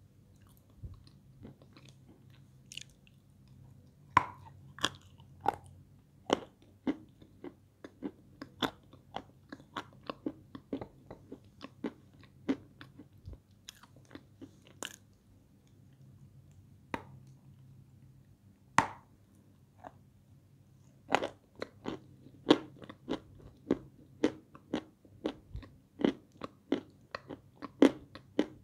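Close crunching and chewing of chunks of peschanka, an edible sandy clay, dipped in liquid: a run of sharp, irregular crunchy bites and chews at about two a second, with a sparser lull in the middle.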